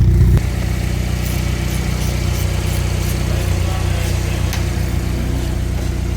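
Hyundai i30N's 2.0-litre turbocharged four-cylinder engine running through a freshly fitted full exhaust system with a sports cat, a steady low drone. About half a second in it drops suddenly to a quieter, even idle.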